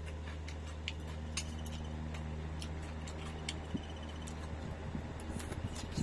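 Scattered light clicks and clinks of tableware while someone eats from a bowl, over a steady low hum.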